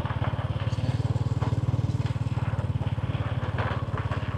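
Small motorcycle engine running steadily at an even speed, a fast, low, regular putter.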